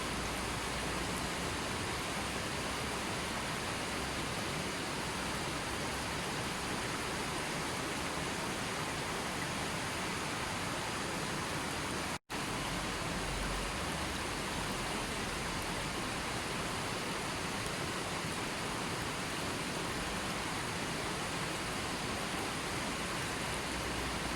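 Steady, even rushing-water noise like a waterfall or heavy rain, unchanging throughout, cutting out to silence for an instant about halfway through.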